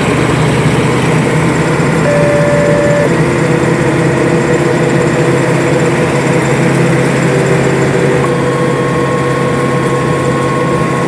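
Fire engine's engine and road noise heard from inside the cab as the truck drives, loud and steady. A faint steady tone comes in for about a second near the two-second mark, and another from about eight seconds on.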